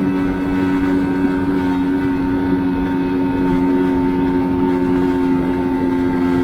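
Mash Fifty 50cc single-cylinder, single overhead cam engine running at steady revs while the motorbike is ridden, a constant buzzing engine note that holds its pitch.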